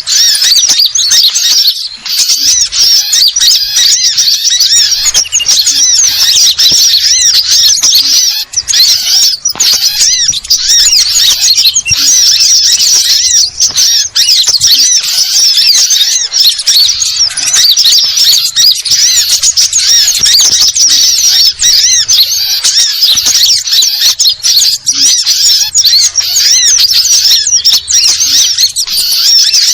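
Sunbirds chirping and twittering non-stop, many quick high-pitched calls overlapping into a dense, busy chatter.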